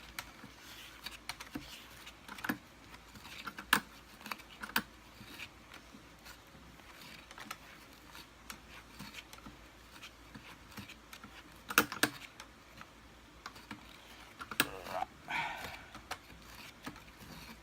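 Scattered small clicks, taps and scrapes of hand tools and parts as the fan is worked off the Kirby Sentria II vacuum's motor shaft, with a cluster of louder clicks about twelve seconds in and a brief rising squeak near the end.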